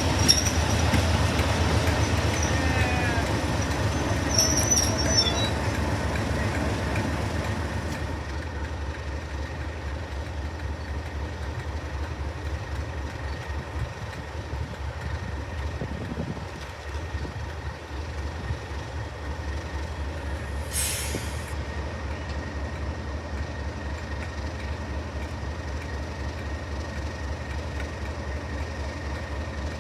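Heritage diesel locomotive engine running with a deep, steady throb, loudest in the first several seconds while wheels squeal against the rails, then settling lower. A short hiss of air sounds about twenty seconds in.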